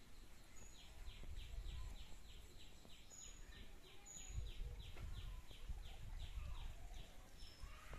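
A bird calling in a fast run of short, slightly falling notes, about three a second, starting about a second in and stopping near the end, with a few brief high chirps over it and a faint low rumble underneath.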